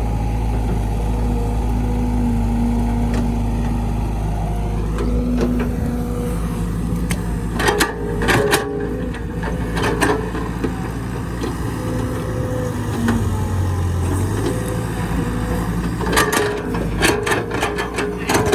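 A heavy machine's engine running steadily, with a few clusters of sharp knocks about 8 seconds in and again near the end.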